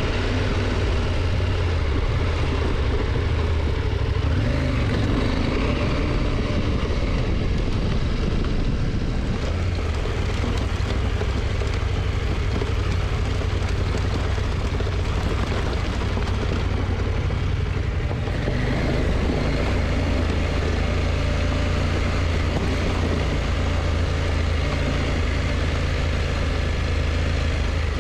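KTM motorcycle engine running at a steady cruise, a continuous low drone mixed with wind rush that holds an even level throughout.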